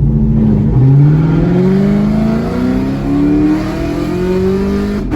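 Chevrolet Camaro 2SS's 6.2-litre V8, breathing through headers and an MBRP cat-back exhaust, accelerating hard. The revs drop briefly just before a second in, then the exhaust note climbs steadily for about four seconds.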